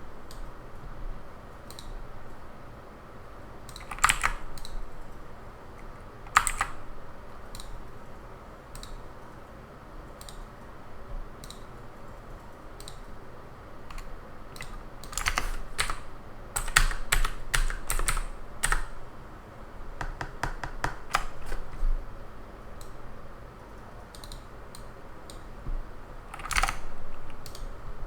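Typing on a computer keyboard: irregular keystrokes in quick bursts with pauses between, and a few heavier, longer strokes, over a faint steady hiss.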